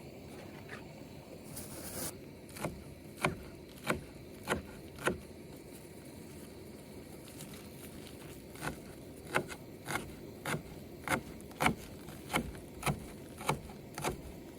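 Knife chopping green onion, cilantro and mint, in even strokes a little under two a second. There are two runs of chops, with a pause of a few seconds between them.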